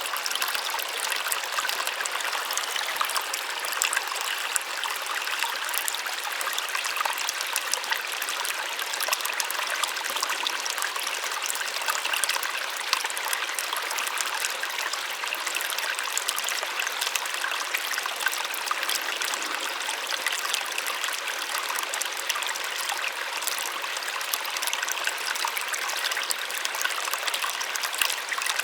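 Small waterfall splashing steadily, a continuous hiss of falling water with fine spattering and little low rumble.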